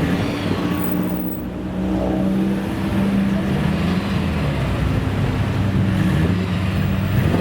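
Car engine running loudly, its pitch rising and falling a little as it revs.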